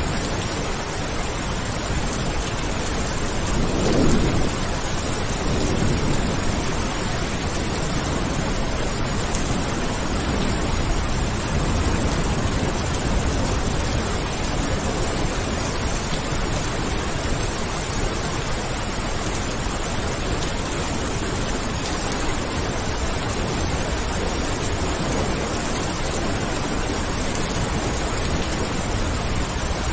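Steady rain with a rumble of thunder about four seconds in, then a couple of fainter swells of rumble.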